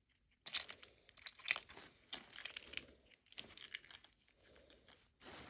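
Miniature plastic toy food being handled and fitted into a toy fridge: a run of light clicks and rustles, with short pauses.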